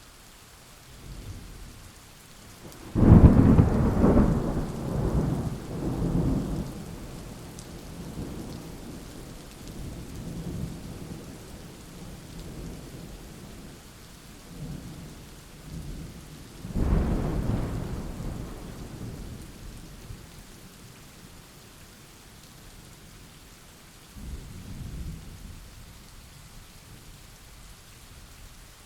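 Thunder over steady rain: a loud thunderclap a few seconds in that rolls on in rumbles for several seconds, a second clap a little past halfway, and a fainter rumble near the end.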